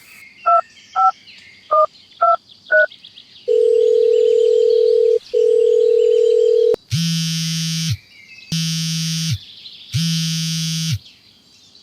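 Telephone sounds: five short keypad beeps, then a steady dial tone with a brief break, then a click and three buzzing rings about a second long each.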